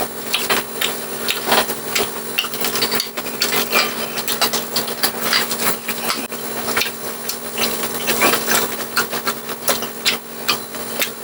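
Close-miked chewing of crunchy fried food, a dense run of irregular crackling crunches; the food is still crisp though soaked in broth.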